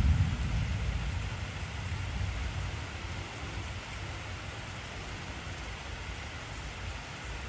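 Heavy rain falling steadily, with a low rumble of thunder dying away over the first several seconds.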